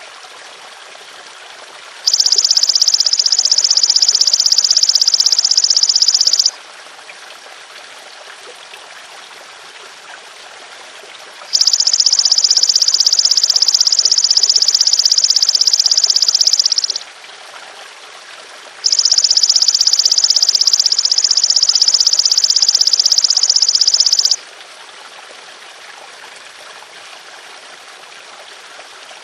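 Golden grasshopper (belalang emas) giving long, high buzzing trills: three of about five seconds each, with a fourth starting at the very end. A steady trickle of water runs underneath.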